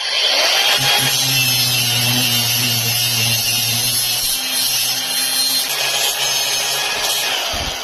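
Grinder cutting into a steering shaft joint: the motor runs steadily with a loud hiss of the disc on metal, slowing near the end. The cut is a slot of about 4 mm so that the loose joint can be clamped tight.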